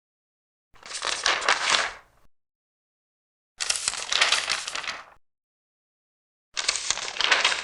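Large paper pages being turned, one after another: three crisp rustles of about a second and a half each, a few seconds apart, with silence between.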